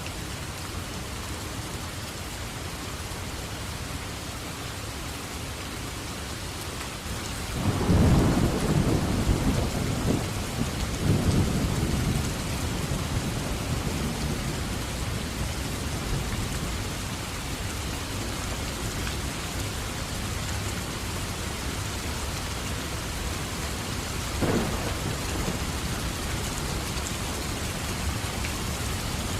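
Steady heavy rain with a roll of thunder that breaks in about a quarter of the way through and rumbles on for several seconds, then a shorter, sharper thunderclap near the end.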